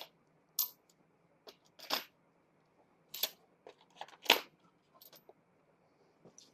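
Clamping hardware being handled and set in place: about five short, sharp clicks and knocks of metal parts, spaced a second or so apart, the loudest about four seconds in.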